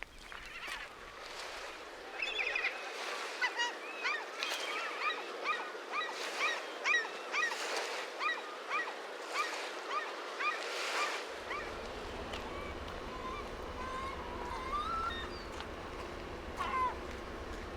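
A bird calling in a quick series of short, hooked notes, about two a second, for several seconds, then a few single calls, with footsteps on the trail beneath.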